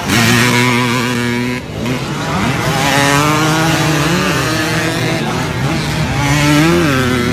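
Motocross motorcycle engines running steadily. Their pitch rises and falls briefly twice with throttle blips, and the sound dips for a moment about a second and a half in.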